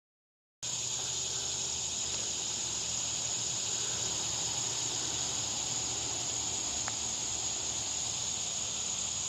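Summer insects droning steadily at one high pitch, with a faint outdoor hiss beneath, cutting in after about half a second of silence.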